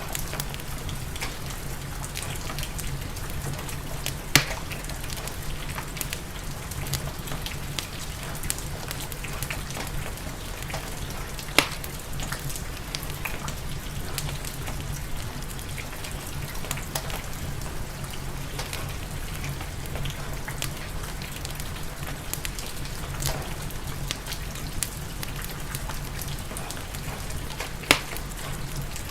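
Steady rain with a crackling wood fire, scattered sharp pops over the hiss; three loud pops stand out, about four seconds in, about a third of the way through, and near the end.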